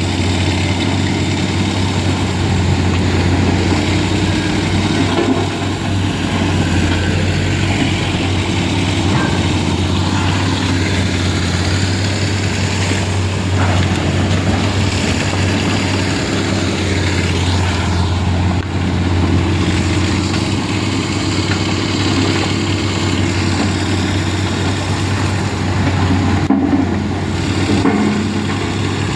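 A vehicle engine running steadily, a low even drone with no clear revving.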